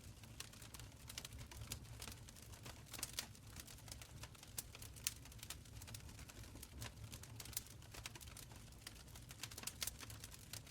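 Wood fire crackling in a stone fireplace: a steady patter of small irregular pops and snaps over a low, even rumble.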